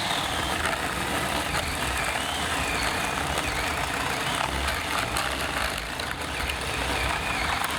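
Ryobi 18-volt battery chainsaw running under load as it cuts wood, with a steady noise and a wavering motor whine. The motor is struggling, a sign of the battery running low. It cuts off suddenly near the end.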